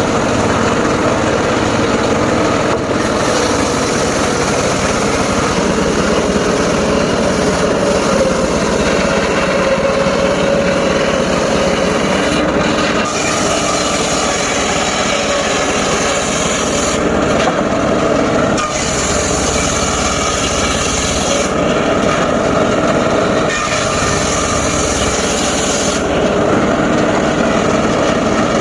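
Engine-driven mobile circular saw running and cutting timber, a steady mechanical drone with the blade's hiss through the wood; the sound's brightness changes every few seconds.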